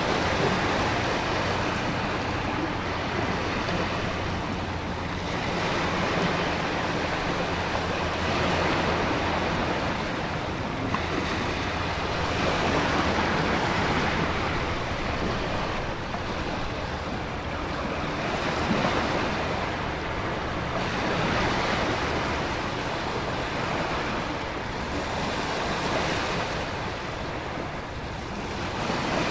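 Storm ambience: ocean waves surging and breaking with wind and heavy rain, a dense steady rush that swells and ebbs every few seconds.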